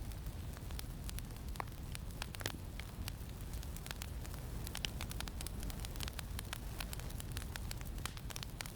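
Campfire crackling, with frequent irregular sharp pops and snaps over a steady low rumble of wind.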